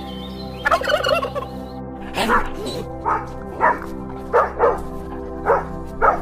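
Turkey gobbling: a rapid warbling gobble about a second in, then a run of short, sharp calls every half second or so, over a steady background music bed.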